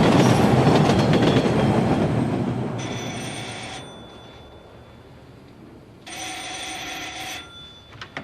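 Old-style telephone bell ringing twice, each ring about a second long and about three seconds apart. Before the rings, a loud rushing noise fades away over the first few seconds.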